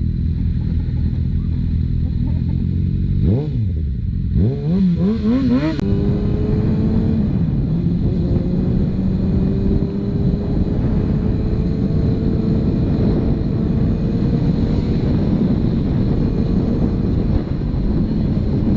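Motorcycle engine idling, then revved in several quick blips a few seconds in. It then runs on steadily under way, its pitch climbing slowly.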